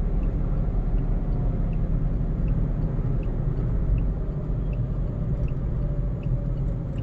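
Car driving at speed, a steady low rumble of engine and tyre noise inside the cabin, with faint ticks about every three-quarters of a second.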